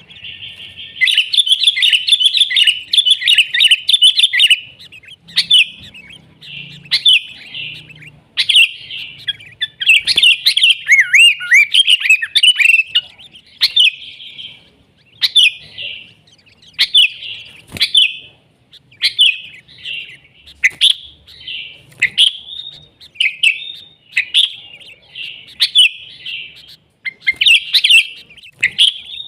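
Sooty-headed bulbuls (kutilang) singing: a dense run of bubbly chattering phrases over the first few seconds, then short, bright phrases repeated about once a second.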